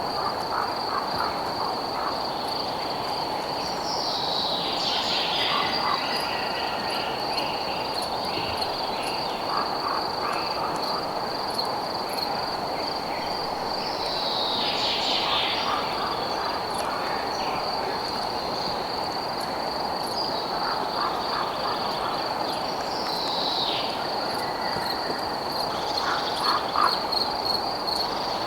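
Night nature ambience: a continuous high, pulsing insect trill over a steady low hiss, with scattered frog calls. A falling call sweeps down four times, about every ten seconds.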